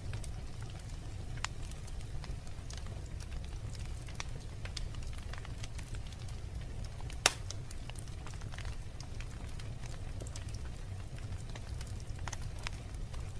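Wood fire burning in a fireplace: a steady low rumble with scattered small crackles, and one sharp, loud pop about halfway through.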